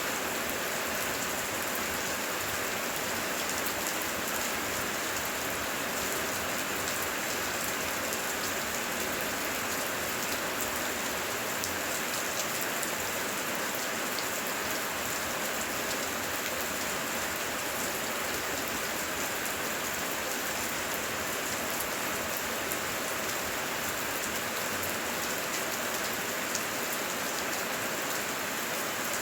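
Rain falling steadily: a dense, even hiss with many small drops ticking through it.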